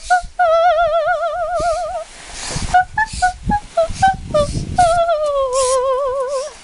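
A woman singing high notes with a wide vibrato: a long held note, a string of short separate notes, then a long note that slides downward. The song is a call to the young blue jays that it is feeding time.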